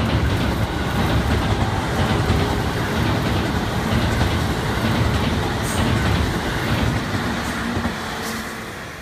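JR Central 313-series electric train running past close by, a loud rumble of wheels on rail with clacks over the joints. It fades away near the end as the train recedes.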